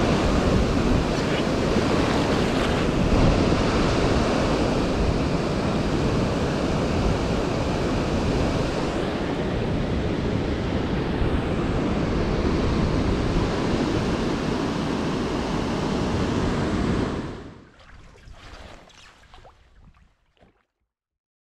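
Steady, loud rushing noise of waves and wind buffeting the microphone on open lake water, cutting off about seventeen seconds in and leaving only faint crackles.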